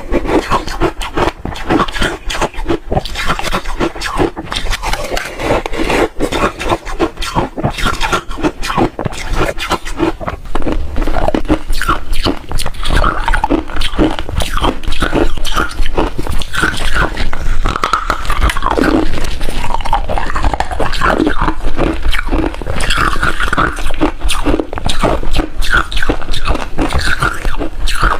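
Hard refrozen ice being bitten and chewed close to the microphone: a fast, continuous run of sharp cracks and crunches, growing a little louder about ten seconds in.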